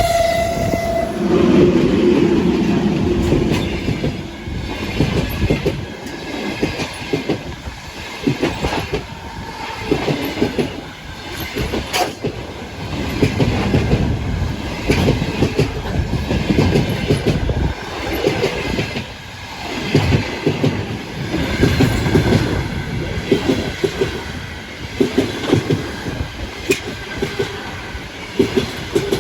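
Passenger train horn sounds briefly at the start. Then the train rolls past with a steady, rhythmic clickety-clack of wheels over the rail joints, coming in repeated groups as the cars go by.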